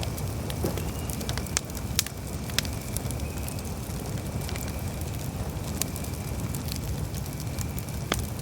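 Campfire crackling: sharp pops of burning wood come at irregular intervals, the loudest about two seconds in, over a steady low rumble.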